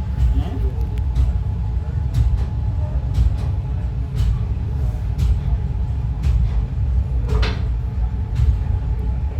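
Train rolling along, with a heavy, steady low rumble and scattered sharp clicks, and one louder clank about seven seconds in.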